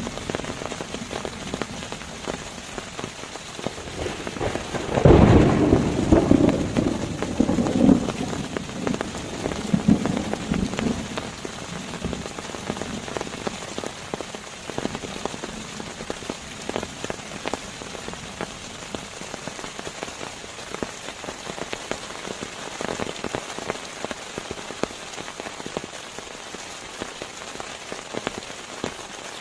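Steady rain, with a sudden rumble of thunder about five seconds in that dies away over the next several seconds.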